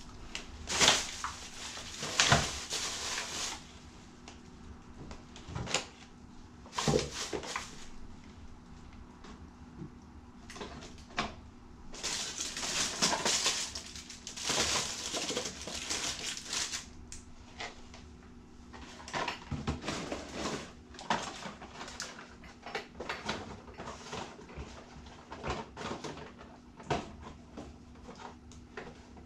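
Household items being handled and put back into storage: scattered knocks and clatter with stretches of rustling, over a faint steady low hum.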